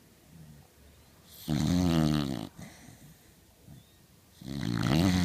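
Cocker spaniel snoring: two snores, each about a second long and about three seconds apart, with faint breathing in between.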